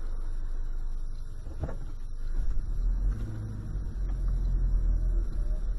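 Low, steady rumble of a car on the move, heard from inside the cabin, with one sharp click a little under two seconds in.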